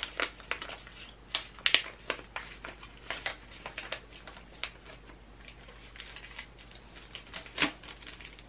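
A paper envelope being sealed shut with a strip of adhesive plaster by hand: irregular rustling and crinkling with sharp little clicks, the loudest about two seconds in and near the end.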